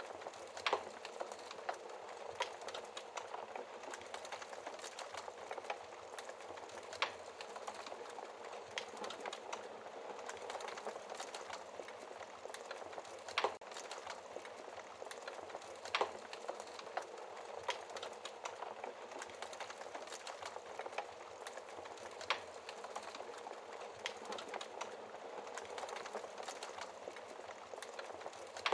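Wood fire burning in a fireplace: a steady soft hiss with irregular sharp crackles and pops every second or two.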